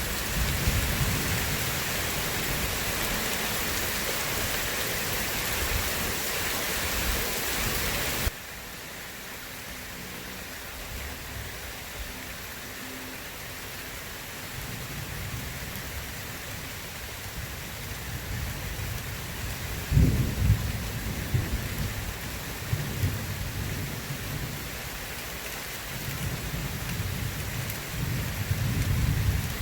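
Heavy rain hissing steadily, then dropping off suddenly about eight seconds in to a softer rain. Low thunder rumbles build under it, with a sharp thunderclap about two-thirds of the way through and more rolling thunder near the end.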